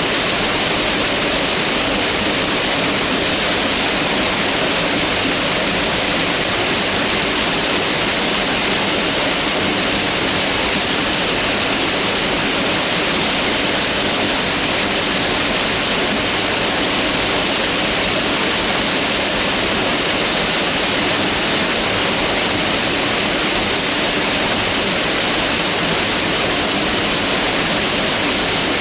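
Mountain river rushing steadily over rocks, a constant full hiss of moving water.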